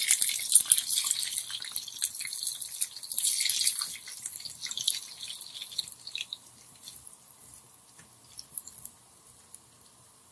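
Small stuffed qatayef frying in hot oil as they are turned over: a dense crackling sizzle, loudest over the first four seconds, then dying down to a faint, scattered crackle.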